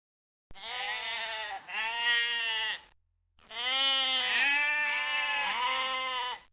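Sheep bleating: two bleats, a short pause, then a longer, wavering bleat.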